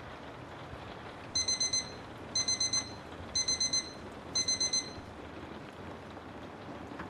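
Digital timer alarm beeping: four rapid beeps, repeated in four groups about a second apart, marking the end of a Pomodoro work session. Steady rain white noise runs underneath.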